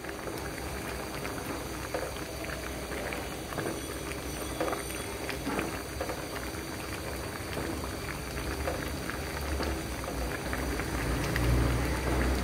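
Pasta in a milk-based white sauce, thickened with cornflour, bubbling and popping as it simmers over medium heat. A low hum grows louder near the end.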